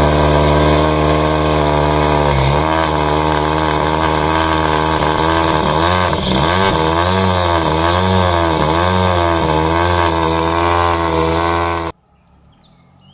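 Rally2 car engine running at high revs, its pitch repeatedly dipping and rising as the throttle is worked. The sound cuts off suddenly about twelve seconds in.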